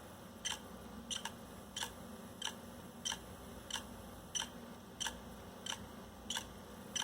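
Failing 160 GB hard disk drive clicking at a steady rate, about three clicks every two seconds, over a faint low hum. The owner puts the clicking down to a magnetic fault, with the read/write head stuck and unable to move down into place.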